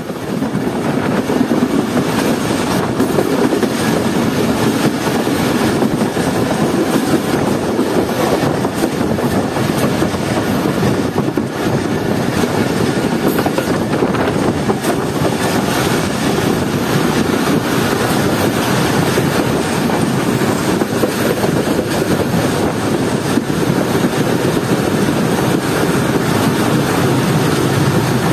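Passenger train coaches running along the track at about 55 km/h, a steady rumble and rattle of steel wheels on the rails, heard from an open coach door.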